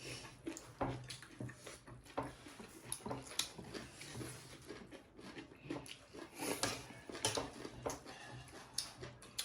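Eating sounds: chewing and mouth smacking, with scattered light clicks at an irregular pace.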